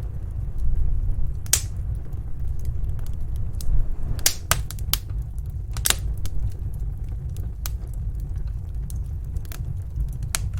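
Wood fire crackling, with irregular sharp pops over a steady low rumble of snowstorm wind.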